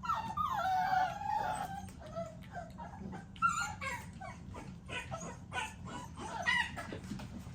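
American Bully XL puppies whining and yelping: a longer wavering whine in the first couple of seconds, then a run of short high cries.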